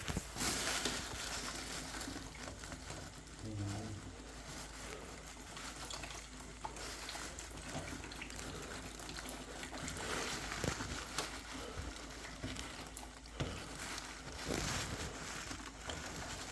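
Light clicks, taps and scraping of plastic parts being worked by hand as a new flow turbine and washer are fitted into a combi boiler's hydraulic block, over a steady faint hiss that sounds like water trickling.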